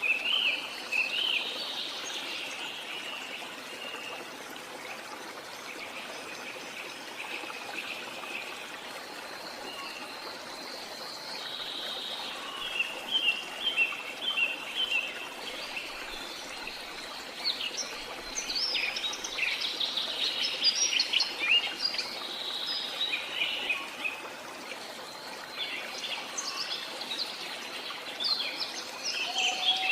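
Steady rush of flowing water from a jungle waterfall, with birds chirping and trilling over it, busiest in the middle and again near the end.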